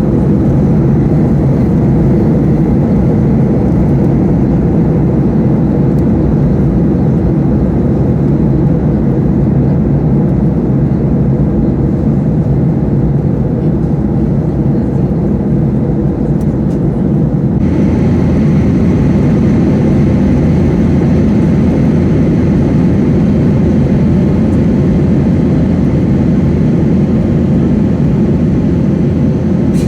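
Steady drone of a Boeing 737-800's CFM56 jet engines and rushing air, heard inside the passenger cabin in flight. About two-thirds of the way through, the hiss suddenly turns brighter and stays that way.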